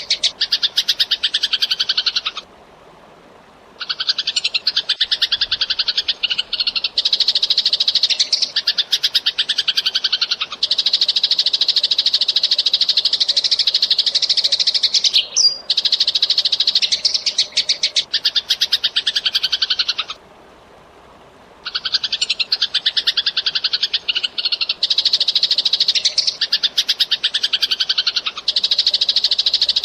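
Eurasian tree sparrows chirping in a fast, dense, unbroken run of high chirps, which stops for about a second twice.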